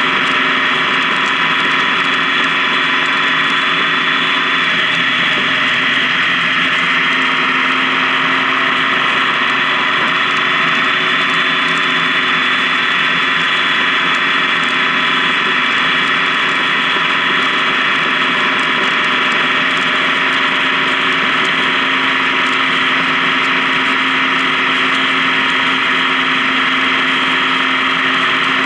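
Honda Gold Wing touring motorcycle running at a steady cruising speed on the highway, its engine note holding almost constant with only a slight waver in pitch.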